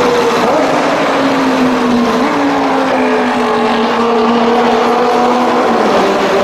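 Supercar engines and exhausts running loudly as cars drive past, the engine note sinking slowly with short upward steps about half a second and a little over two seconds in.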